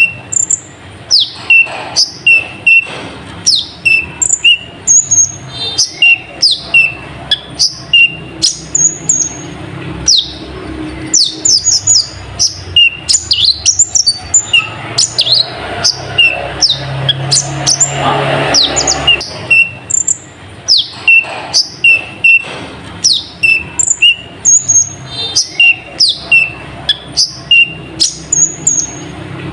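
A kolibri ninja sunbird singing: a fast, continuous run of short, sharp high chirps, many sweeping downward, several a second.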